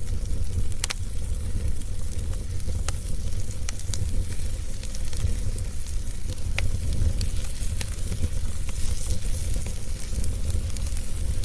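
Wood fire crackling: scattered sharp pops and snaps over a steady low rumble and a soft hiss.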